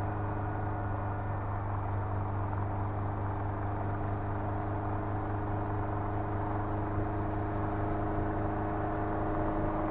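Schweizer 300C helicopter running steadily with engine and rotors up to speed: an even drone with several held tones.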